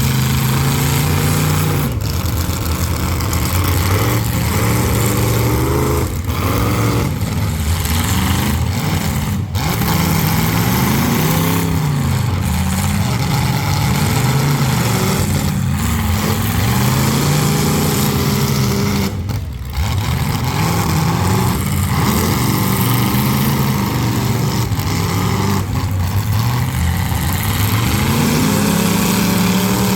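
Several full-size demolition derby cars' engines running loudly at once, revving up and down over and over.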